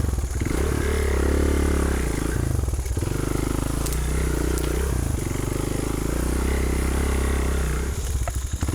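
Honda XR200's single-cylinder four-stroke engine running at low revs, the revs rising and falling as the bike is ridden slowly on the slope, with brief drops in throttle twice.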